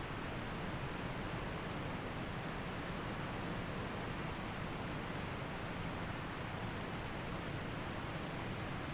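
Waterfall rushing: a steady, unbroken wash of falling water with no breaks or changes.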